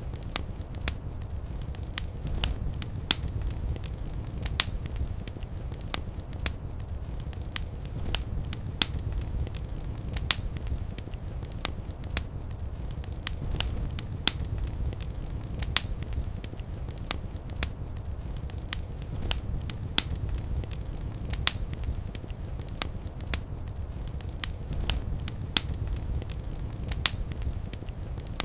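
Wood fire burning in a fireplace: a steady low rumble of flames with frequent sharp, irregular crackles and pops, a few of them much louder than the rest.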